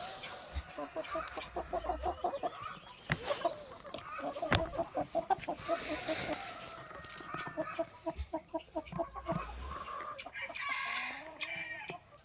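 Chickens clucking in long, rapid runs of short repeated notes, with two or three sharp knocks in the first half.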